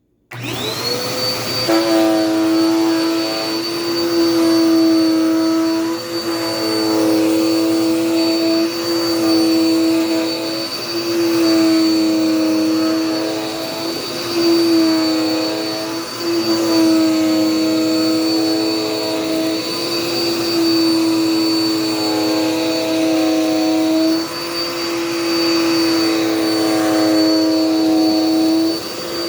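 Dirt Devil Power Max vacuum cleaner switching on, its motor whine rising to a steady high pitch within the first second, then running loudly while vacuuming. Its lower tones shift every second or two.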